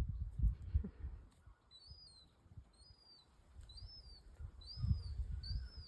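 A bird chirping over and over, about one high, arched chirp a second, starting about two seconds in. Low rumbles on the microphone come at the start and again near the end.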